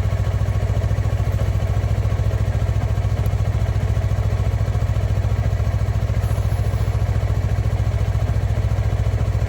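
2021 Yamaha MT-03's parallel-twin engine running steadily at an even, unchanging speed, with a strong low pulsing hum.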